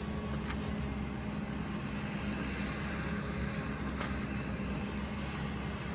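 An engine running steadily with a low hum, with a couple of faint knocks about half a second and four seconds in.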